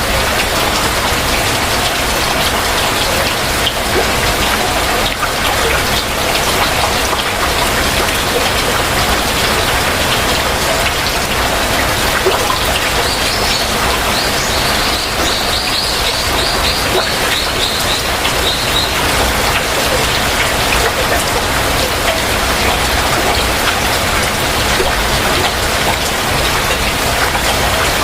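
Heavy rain falling steadily on surfaces. About halfway through, a bird gives a rapid run of short high notes for several seconds over the rain.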